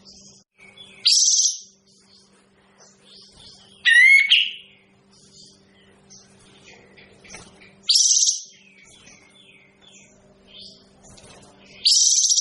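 Sooty-headed bulbul (kapas tembak) calling: a loud, short, high call about every four seconds, with softer chirps in between. A faint steady low hum runs underneath.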